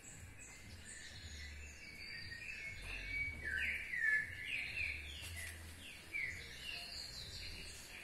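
Several birds chirping and calling in quick, overlapping series of short sliding notes, busiest and loudest around the middle.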